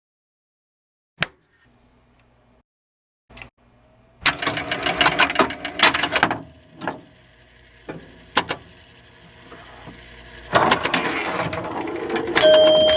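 Mechanical clicking and clattering: a few single sharp clicks, then fast rattling runs of clicks in two bursts. Near the end, steady ringing tones join in.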